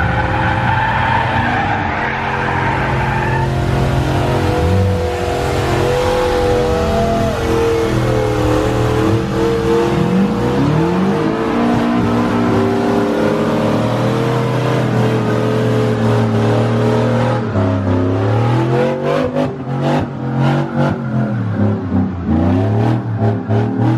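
Car doing a burnout: its engine held at high revs, rising and falling in pitch, over the hiss and squeal of spinning tyres. In the last few seconds the revs cut in and out rapidly in quick sharp pulses.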